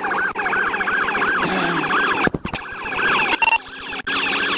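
Police car siren in fast yelp mode: a rapid, evenly repeating up-and-down wail, with a brief crackle partway through.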